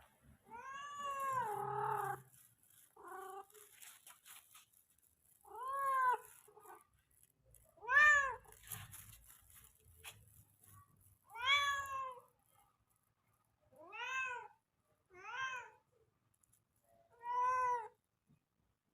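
Male cat calling for a mate: about eight drawn-out meows, each rising and then falling in pitch, repeated every two to three seconds, the first the longest.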